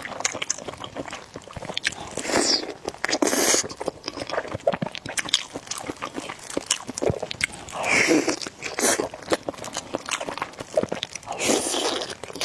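Close-miked eating of spicy noodles with eggs: wet chewing and mouth clicks throughout, broken by about five louder noisy slurps, each half a second to a second long.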